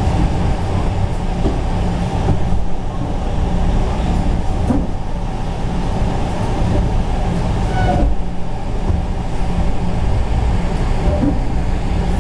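A moving train running on track: a steady rumble of wheels and running gear with a low hum underneath and a few faint ticks.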